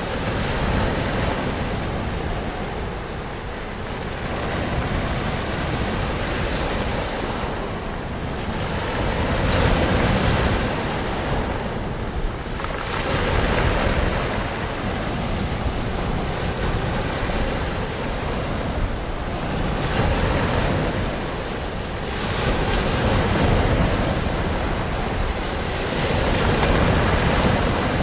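Ocean surf: a continuous wash of breaking waves, swelling and easing every few seconds, with a deep low rumble under it.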